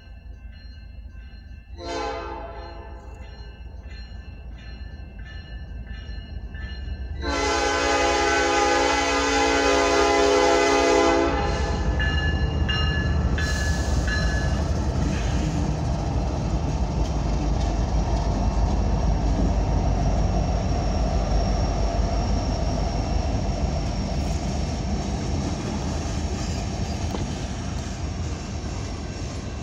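Grade-crossing bell ringing as a freight train approaches. The lead locomotive, a Norfolk Southern GE ES44AC diesel, sounds its horn in a short blast about two seconds in, then a long blast from about seven to eleven seconds. The locomotives then pass with a loud low rumble, followed by the steady rolling noise of loaded ethanol tank cars on the rails.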